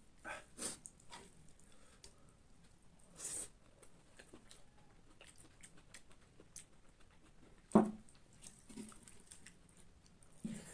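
Mouth sounds of a man eating spicy egg bhujiya by hand: soft chewing and lip smacks, with a short hissing breath about three seconds in and one sharp smack a little before eight seconds.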